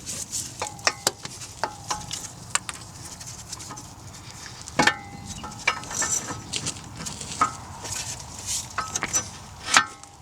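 Tools and metal parts clinking and tapping against each other: a string of irregular sharp clinks, each ringing briefly, the loudest near the end.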